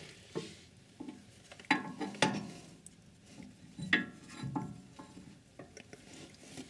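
Sharp metallic clinks and knocks, half a dozen spaced irregularly, the loudest about two and four seconds in, as a steel anti-roll bar bushing clamp is worked by hand over a freshly greased rubber bushing.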